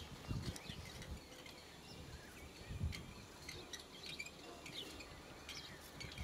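Small birds chirping faintly now and then in short, high calls, with a few low thumps on the microphone.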